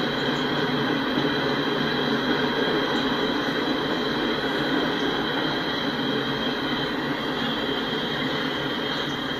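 Freight train cars rolling past steadily, steel wheels running on the rails in an even rumble, with a steady high-pitched tone over it.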